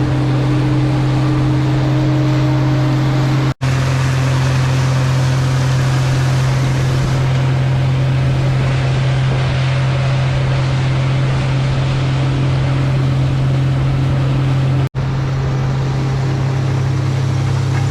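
Case International 16-series Axial-Flow combine running steadily while harvesting: a constant deep engine drone with a rushing noise over it. The sound cuts out for an instant twice, at splices between clips.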